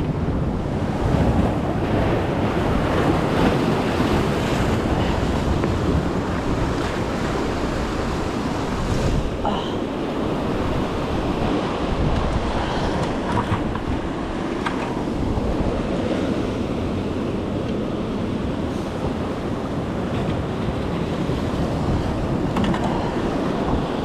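Strong ocean surf washing and breaking against the rocks of a jetty, a steady rushing wash, with wind buffeting the microphone.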